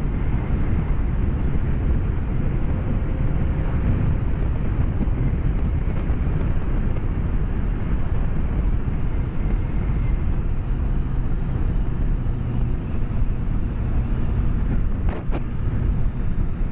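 BMW K1200S inline-four engine and wind rush while riding, heard through a microphone inside the rider's helmet: a steady low rumble, with the engine note coming through more clearly in the last few seconds.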